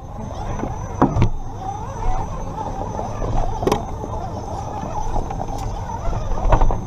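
Redcat GEN7 Pro RC rock crawler driving over a rock course, its electric motor and drivetrain running steadily, with a few sharp knocks as the truck hits rocks.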